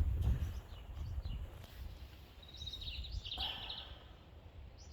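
A small songbird calls outdoors with a short series of high chirps and a quick trill about two and a half seconds in, over a steady low rumble on the microphone.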